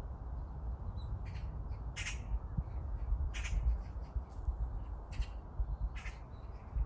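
A crow-family bird calling: about five short, separate calls spread across a few seconds. Low wind rumble on the microphone throughout.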